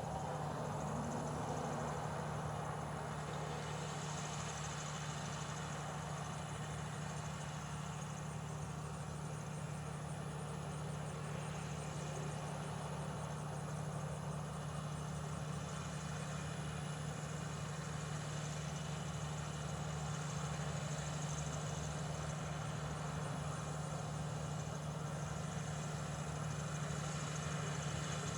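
John Deere 7200R tractor's six-cylinder diesel engine running steadily, a constant low drone with no change in speed.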